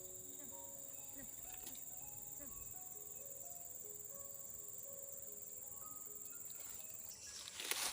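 Steady high-pitched insect chorus of crickets, with scattered short tonal notes at varying pitches. Near the end a rustling noise comes in.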